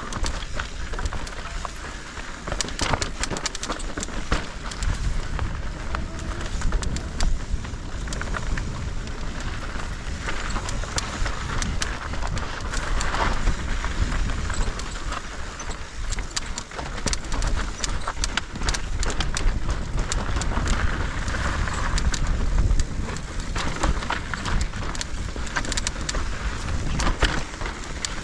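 Mountain bike rattling and clattering as it rides down a rough, rocky trail, with tyre noise and wind rumble on the microphone.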